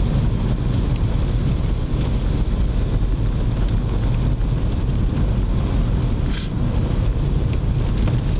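Steady low rumble of a car's engine and tyres, heard from inside the cabin while driving on snowy roads, with a short hiss about six seconds in.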